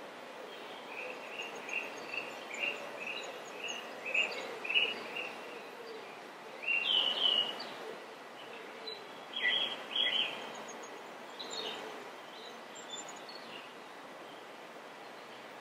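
Small birds chirping: a run of short repeated high chirps, about two a second, then a few louder chirps around the middle, over a steady background hiss.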